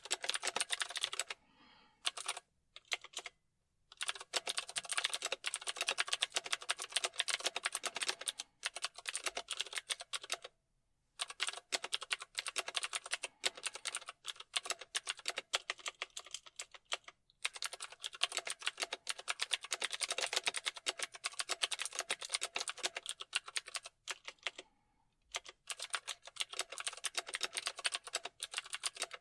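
Fast typing on a computer keyboard: rapid runs of key clicks broken by short pauses of about half a second to a second, the longest about two seconds in.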